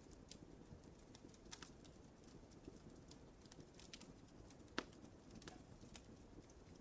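Wood fire crackling in a fireplace: irregular small pops and snaps over a soft, low rumble of burning, with one sharper pop about five seconds in.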